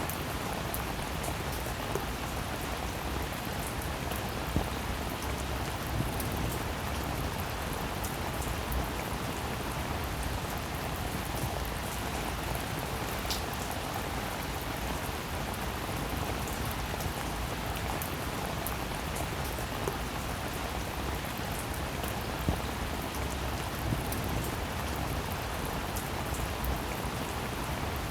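Steady rain falling, with many fine drop ticks and a few louder single drops hitting close by.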